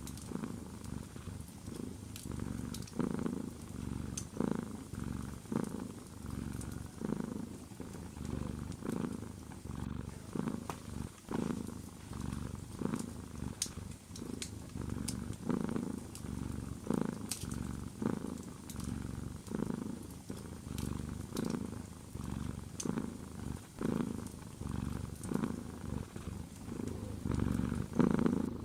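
Domestic cat purring close up, the purr swelling and fading with each breath about every second and a half. Faint scattered crackles of a wood fire.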